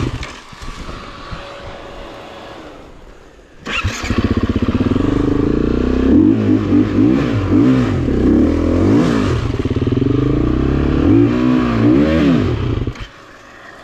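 Off-road motorcycle engine. It drops off sharply at the start and runs quieter for a few seconds, then bursts back in loud about four seconds in. It revs up and down repeatedly for about nine seconds and then cuts off abruptly near the end.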